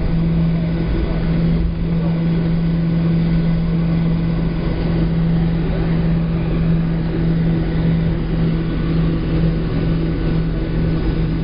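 Cabin noise of a Boeing 737-700 on the ground before takeoff: its CFM56-7 engines at low power making a steady drone with a constant low hum, over an even rumble.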